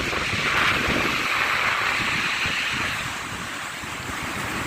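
Sea surf washing onto the beach, a wave swelling about half a second in and easing after about three seconds, with wind buffeting the phone's microphone.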